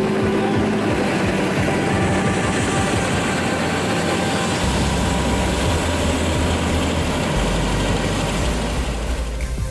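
Helicopter engine and rotor running with a steady, loud noise, a deeper hum coming in about halfway through, dropping away near the end.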